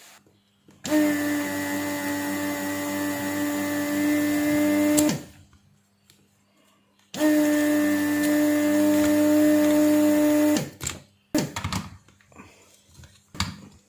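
Small DC motor of a hair trimmer running with a steady hum, switched on twice for about four seconds each and cut off sharply, followed by a few light handling clicks.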